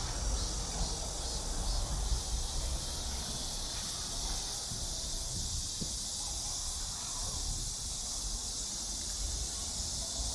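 Steady high-pitched drone of a summer insect chorus, with a low rumble on the microphone underneath.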